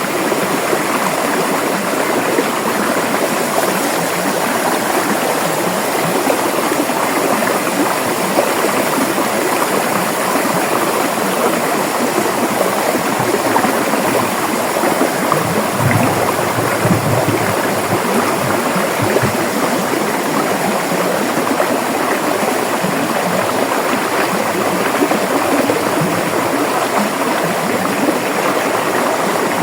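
River water flowing and rushing over rocks, a steady, dense splashing. A few low rumbles break through about halfway in.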